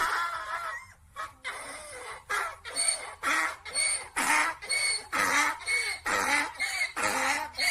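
A run of short animal calls, about two a second, after the fading end of a jingle.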